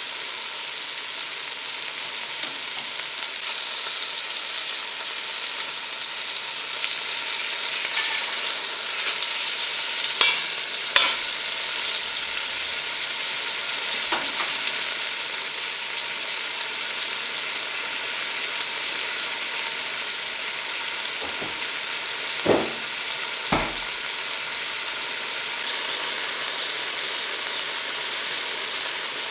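Lobster pieces sizzling steadily as they fry in butter in a cast-iron pot, with a few sharp knocks scattered through, the loudest a little past the middle and about three-quarters through.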